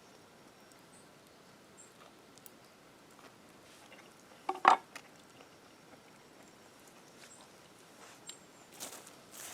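A chicken clucking once, short and loud, about halfway through, over a quiet background of faint high chirps and small clicks.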